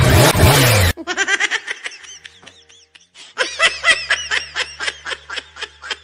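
A loud, noisy sound for about the first second stops abruptly. It is followed by high-pitched giggling laughter in quick, repeated strokes.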